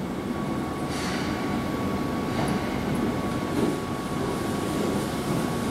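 Keihan 6000-series electric train pulling into the platform and slowing: a low running rumble with a steady high whine that comes in about a second in.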